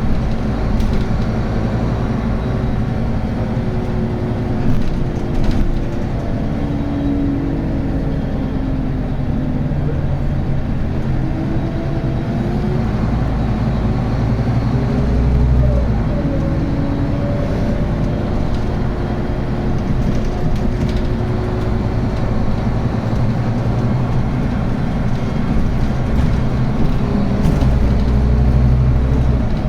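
Scania N280UB diesel city bus with a ZF Ecomat automatic gearbox running steadily, with a whine from the driveline that rises and falls in pitch several times as the bus speeds up and slows.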